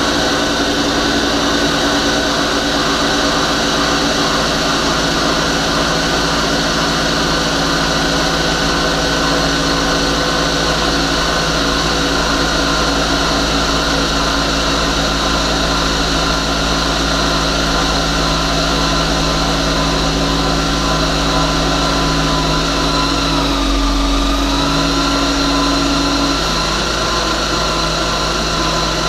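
Turbocharged Honda S2000 four-cylinder engine idling steadily on its first start-up, with a steady high whine over the engine note. About 24 seconds in the idle dips briefly and comes back, and a low hum drops away a couple of seconds later.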